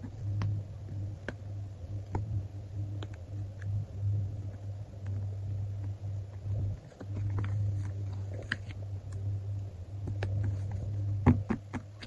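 Sticker sheets and paper being handled: scattered small clicks and crinkles over a steady low hum, with a sharper tap or click near the end.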